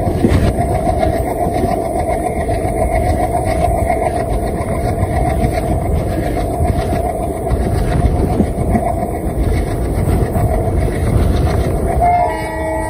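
Passenger train running along the track, heard from an open coach doorway: a steady rumble of wheels and wind. Near the end the locomotive's horn starts to sound.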